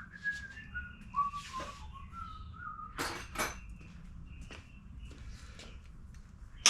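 A man whistling a few stepped notes of a tune, then two sharp clicks of tools on metal about three seconds in, a few faint ticks, and a loud clack just as it ends.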